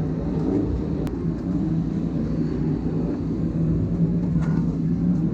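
An engine running steadily, a low even hum over a rumble.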